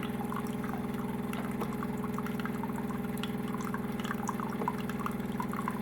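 De'Longhi coffee machine running steadily while it dispenses, its pump giving an even hum with small drips and trickles of coffee into the cup.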